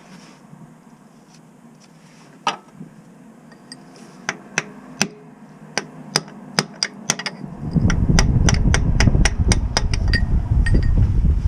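A series of sharp metallic taps from hand tools on the car: a few spread out at first, then quicker, about four or five a second. A loud low rumble comes in about two-thirds of the way through.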